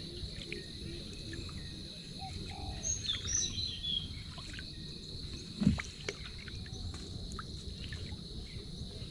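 Steady high-pitched drone of an evening insect chorus, with a short flurry of bird chirps about three seconds in and a single dull thump a little past the middle.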